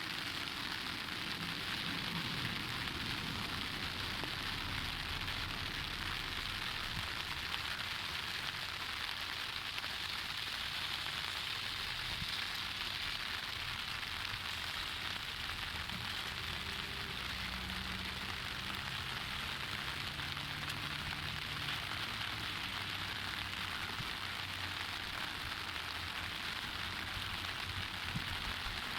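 Steady, even hiss of rushing water from a river running high in flood after typhoon rains.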